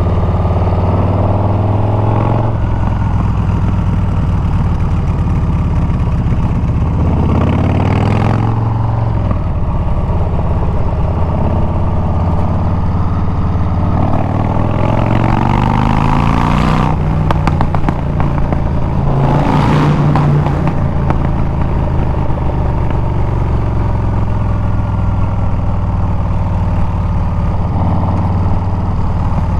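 Harley-Davidson Milwaukee-Eight 114 V-twin running through a Bassani exhaust while riding, its pitch climbing under throttle and dropping at each gear change, several times over. Short rushes of wind noise come and go a few times.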